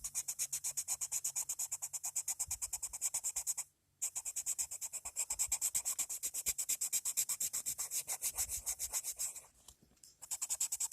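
Colored pencil shading on paper: fast, even back-and-forth scratching strokes, about seven a second, with two short pauses, one about four seconds in and one near the end.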